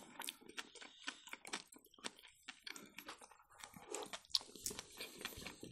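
Faint close-miked chewing, with scattered soft, wet mouth clicks and smacks of someone eating.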